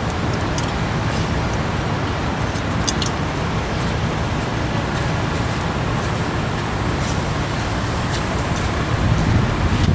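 Steady road traffic noise: a low rumble with hiss, holding level throughout.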